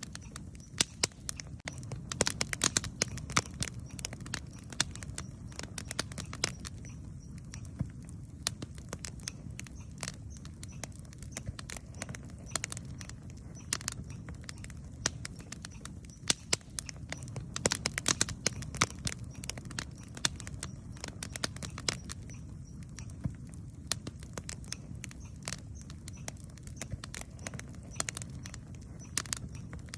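Wood campfire burning: many sharp, irregular crackles and pops over a steady low rumble of the flames.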